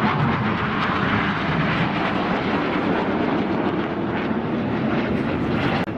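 Several BAE Hawk T1 jets flying past, their Adour turbofan engines making a loud, steady jet noise whose pitch sinks slowly as they go by.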